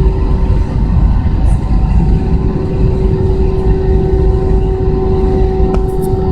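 Airbus A320 jet engines heard inside the cabin: a deep, steady rumble with a steady hum over it. A couple of short clicks come near the end.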